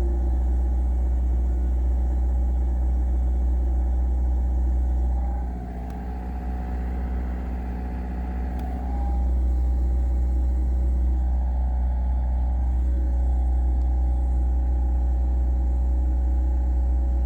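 Car engine running steadily with a deep low rumble. Its level drops for a few seconds about five seconds in, then comes back up.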